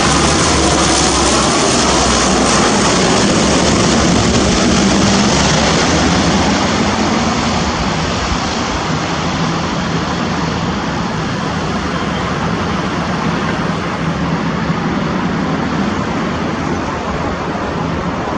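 Lockheed C-130 Hercules four-engine turboprop going past with a loud, steady rushing engine noise, which grows fainter from about seven seconds in.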